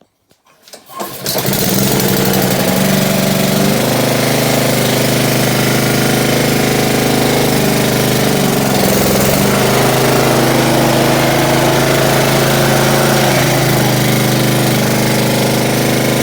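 Honda GCV160 single-cylinder engine of an HRX 426 lawn mower starting about a second in, after a few faint clicks, then running steadily at a constant speed, its pitch settling slightly about four seconds in.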